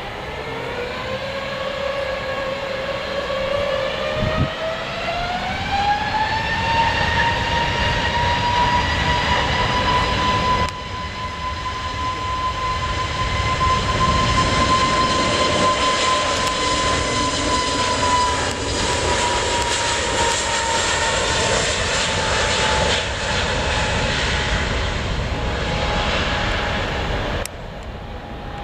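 Airbus A320neo jet engines spooling up for takeoff: a whine that rises over the first several seconds, then holds steady over a loud roar as the airliner accelerates. The sound breaks off abruptly twice, at about eleven seconds and near the end.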